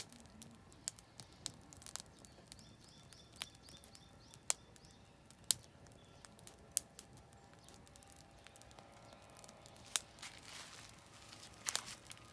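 Oak firewood burning in a campfire, crackling with irregular sharp pops of varying loudness. A bird sings a short series of repeated high notes about three seconds in.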